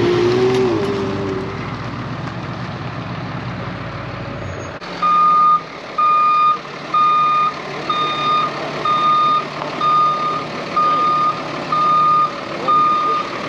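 Flatbed tow truck's reversing alarm beeping steadily, about once a second, over the truck's running engine. This follows a few seconds of heavier engine noise with a falling tone.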